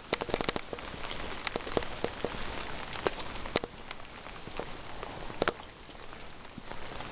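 Rain falling on hard surfaces: a steady hiss with irregular sharp ticks of individual drops.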